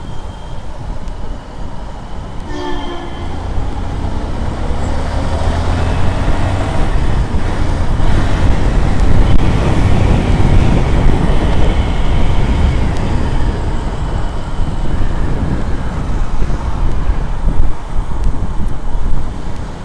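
Motorcycle riding through city traffic: steady engine and road rumble that grows louder towards the middle. A vehicle horn honks briefly about two and a half seconds in.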